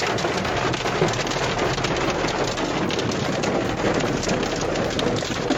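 Heavy hail pelting a car, a dense, steady clatter of countless small impacts with a few sharper hits.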